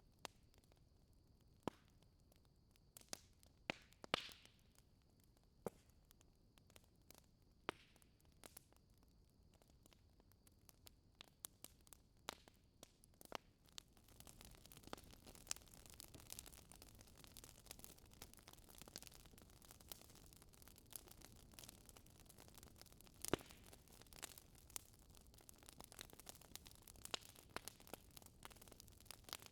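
Wood fire in a fireplace crackling softly, with scattered sharp pops and snaps; a gentle hiss comes up about halfway through.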